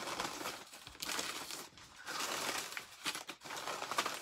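Packing newspaper rustling and crumpling as it is pulled out of a cardboard box, in irregular bursts with sharp crackles.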